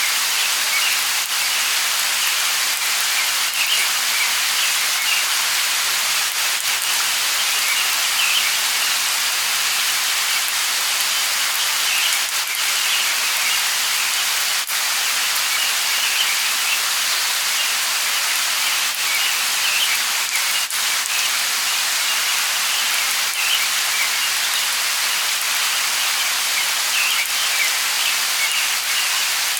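Steady light rain falling, with single drops striking close by now and then. Birds chirp faintly in the background.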